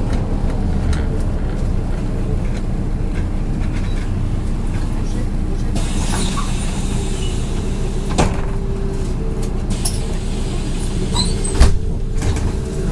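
MAZ 103 bus running, heard from inside the cabin: a steady engine and road drone. About six seconds in a hiss joins for a few seconds, and there are knocks from the body, the sharpest one near the end.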